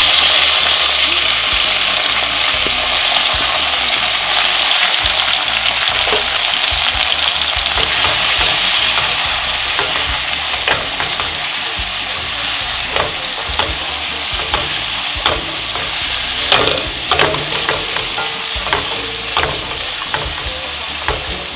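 Onions, tomatoes, peppers and garlic sizzling in hot coconut oil in a pan, the sizzle easing off gradually as the fresh vegetables cool the oil. From about halfway a spoon stirs them, with light taps and scrapes against the pan.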